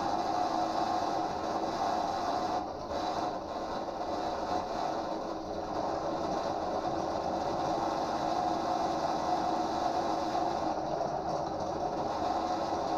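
Pillar drill running steadily with its bit cutting into steel.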